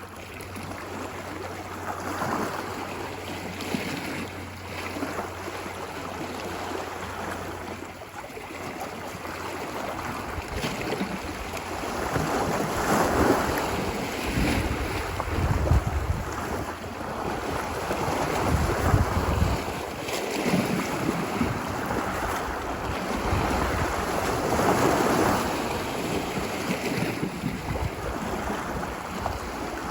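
Ocean waves washing ashore, the surf swelling and falling back every few seconds, with wind rumbling on the microphone. A faint low steady hum fades out about a third of the way in.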